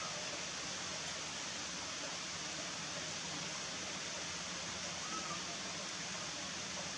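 Heavy rain falling, a steady even hiss, with a faint brief high sound about five seconds in.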